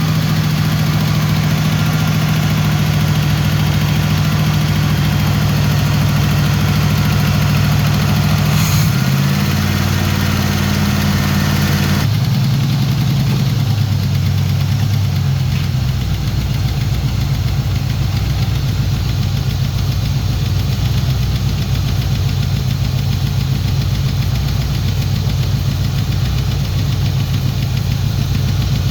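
Pontiac Turbo Trans Am's turbocharged V8 running steadily on a fresh flat-tappet camshaft during its first-start break-in. It drops to a lower speed about nine seconds in and again about twelve seconds in.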